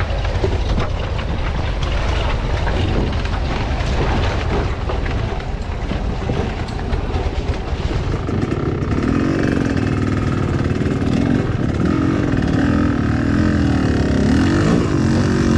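Enduro motorcycle engine running while riding off-road, with many short knocks and rattles. From about halfway through, the engine's pitch rises and falls repeatedly as the throttle is worked.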